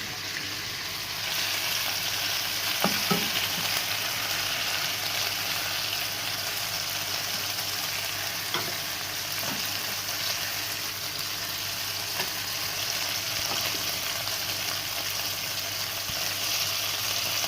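Chicken pieces frying in hot cooking oil in a frying pan, a steady sizzle. A few light clicks of a utensil against the pan come as the browned pieces are lifted out, the first about three seconds in.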